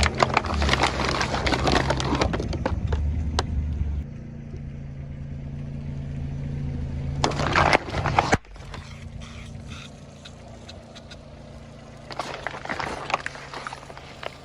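Brittle things crunching and cracking as they are crushed: dense crackling for the first few seconds, a short loud burst of cracking a little past halfway, and more crackling near the end, over a steady low hum.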